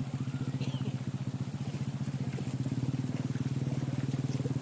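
A small engine running steadily at constant speed, with a fast, even pulse.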